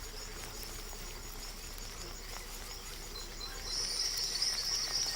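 Forest ambience, then a high, steady insect buzz sets in about three and a half seconds in and stays on.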